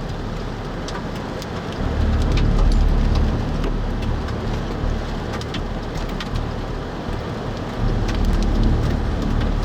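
Heavy rain pelting a vehicle, with many sharp ticks of drops striking the body and glass over a low rumble that swells about two seconds in and again near the end.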